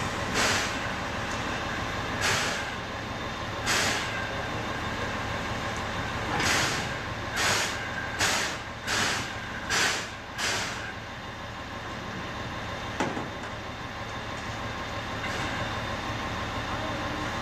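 C11 steam locomotive standing with a steady background hiss while giving a series of short, sharp hissing puffs of steam or air. The puffs come a few seconds apart at first, quicken to about one a second from about six seconds in, and stop about eleven seconds in.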